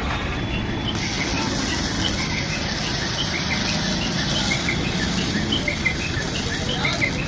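Birds chirping over and over, short high chirps in quick irregular succession, over a steady low rumble; a high hiss joins about a second in.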